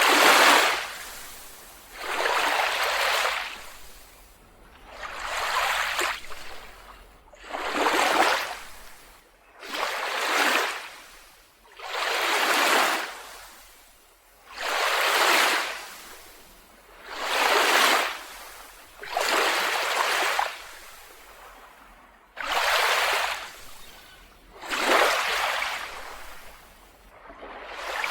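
Small ocean waves washing onto a beach, one about every two and a half seconds, each swelling and then fading away.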